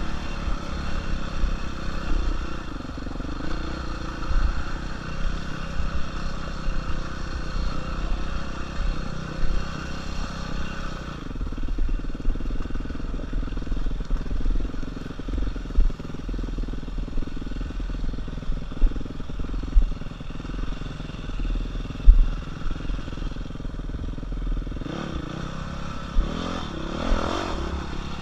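Dirt bike engine running under way on a rough single-track trail, with frequent thumps and jolts on top. Near the end the engine revs up and back down.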